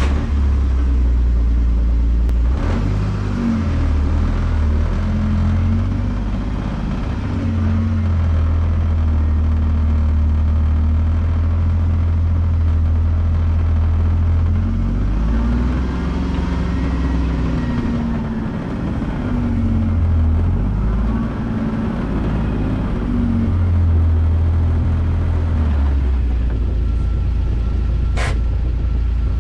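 A vehicle engine running and driving, its pitch rising and falling several times as it speeds up and slows down.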